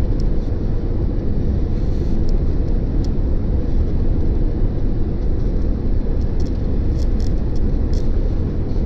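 Steady low roar of jet airliner cabin noise, engines and airflow heard from inside the passenger cabin, with a few faint rattling clicks from the cabin.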